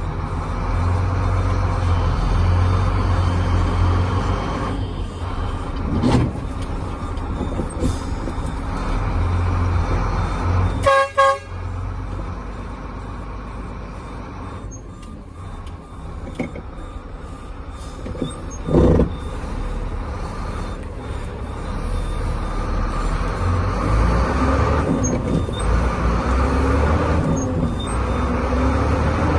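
Howo dump truck's diesel engine running steadily, with a short double toot of the truck's horn about eleven seconds in.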